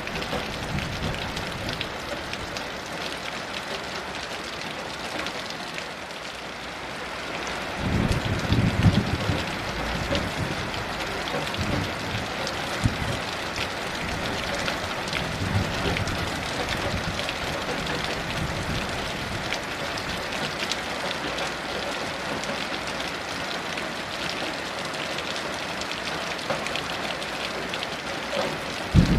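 Heavy rain falling steadily, with a low rumble of distant thunder rolling in about eight seconds in and fainter rumbles after it.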